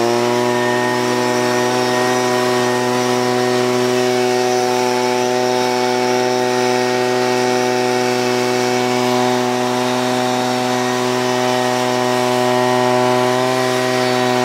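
Leaf blower running steadily at full speed with an even motor whine, blowing dust and pine needles out of a car's interior.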